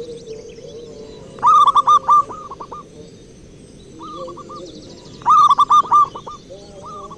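Zebra doves (perkutut) cooing: a loud burst of quick staccato coos about a second and a half in, a shorter run near four seconds, and another loud burst about five seconds in. A softer dove call wavers underneath, with faint high chirps of other birds.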